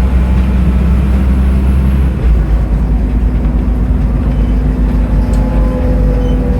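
Scania N310UA articulated city bus engine running under way. Its low engine note changes abruptly about two seconds in, and a faint whine slowly falls in pitch near the end.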